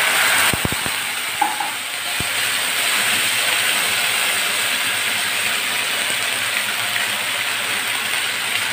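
Canned sardines in tomato sauce hitting hot oil with garlic and onion in a pan: a loud burst of sizzling at the start that settles into a steady sizzle, with a few soft knocks in the first couple of seconds.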